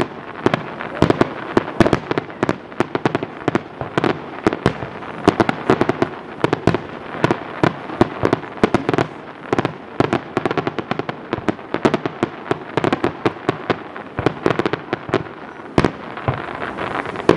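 Fireworks display: a dense, irregular run of bangs and crackling pops from shells bursting, with one sharp, louder bang near the end.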